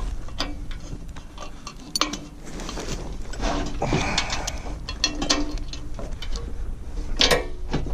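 Steel hardware and hand tools clicking and clinking as a bolt, washer and spacers are worked into a loader bucket's pivot, with a loud click about two seconds in and another near the end, over a low steady hum.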